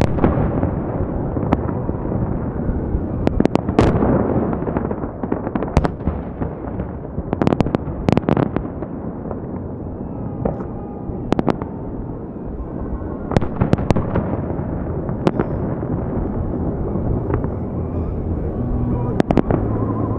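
Holiday fireworks salute: irregular sharp bangs, some single and some in quick clusters of two or three, over a continuous dense rumble.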